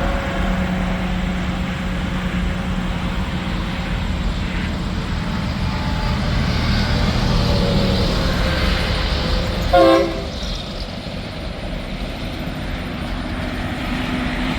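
Heavy trucks passing on an interstate highway, a steady mix of engine and tyre noise. About ten seconds in comes one short, loud horn toot.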